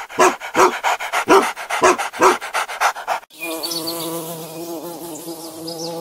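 An English bulldog panting quickly, about three breaths a second. About three seconds in it gives way to a bumblebee's steady buzz.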